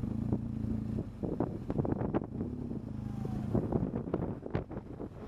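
Motorcycle engine running at a steady pitch while riding, with wind buffeting the microphone in short gusts.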